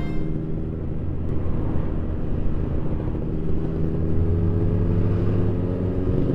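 Motorcycle engine running steadily while riding in traffic, a low hum with rushing road and wind noise, a little louder in the second half.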